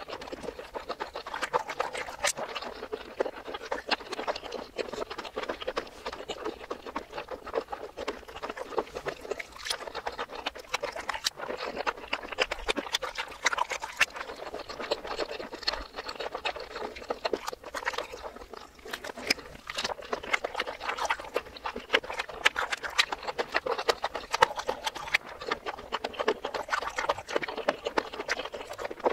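Close-miked chewing and wet mouth sounds of eating breaded mozzarella cheese balls, played in reverse: a steady, dense run of small sticky clicks and smacks.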